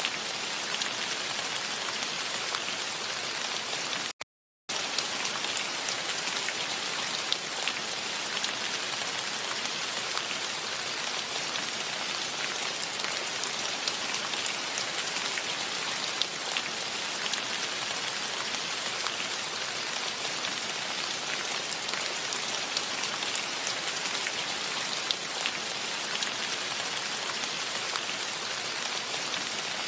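Steady rain falling, a dense even hiss of many individual drops pattering. About four seconds in, it cuts out completely for about half a second, then resumes unchanged.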